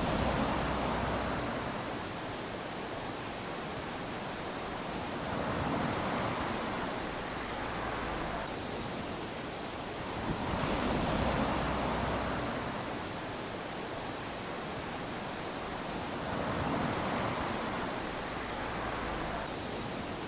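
Small sea waves lapping onto a sandy shore, each wash swelling and fading back, about four of them five to six seconds apart.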